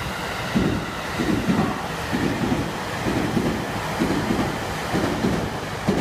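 A train passing through the station at speed, its wheels clattering over rail joints in regular heavy beats about once a second over a steady rushing rumble.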